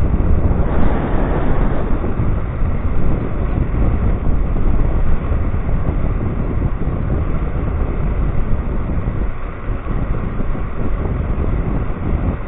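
Wind rushing and buffeting on the microphone of a moving electric scooter: a loud, steady, low rumble that swells and dips.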